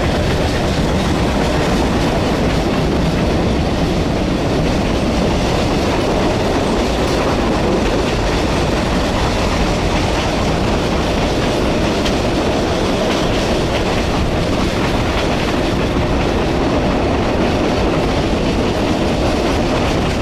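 PeruRail passenger train running along the track: steady noise of the wheels on the rails and the moving carriage, heard at an open carriage window.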